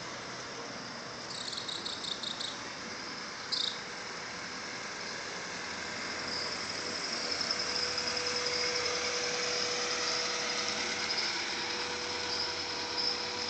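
1996 Acura Integra driving slowly up and stopping close by, its engine growing louder from about six seconds in, over a steady high chirring of insects.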